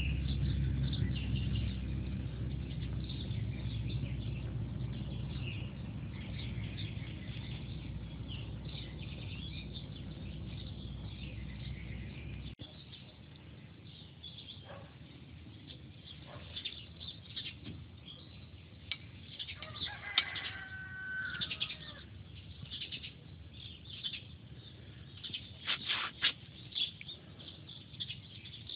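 Outdoor garden ambience with small birds chirping. A low rumble slowly fades over the first dozen seconds, then cuts off suddenly, leaving quieter birdsong. About twenty seconds in comes one longer call of a second or so with several stacked tones.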